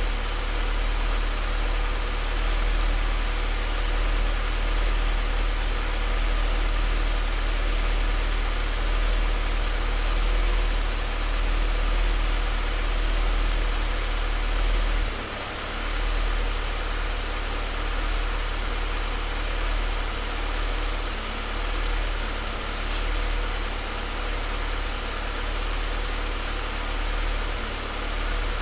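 Car engine idling rough: a steady low hum that swells and sags slowly, with a brief dip in the low rumble about halfway through.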